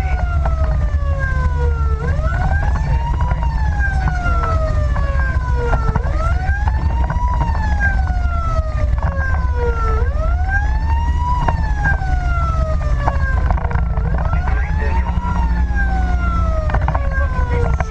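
Fire engine's electronic siren on a wail, rising quickly and falling slowly about every four seconds. The truck's engine and road noise rumble steadily underneath.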